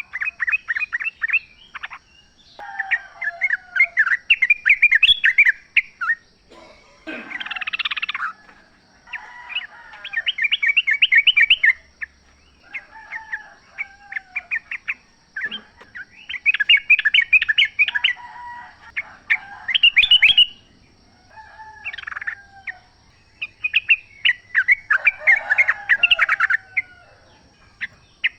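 Yellow-vented bulbuls singing: phrases of rapid notes a second or a few seconds long, repeated again and again with short gaps.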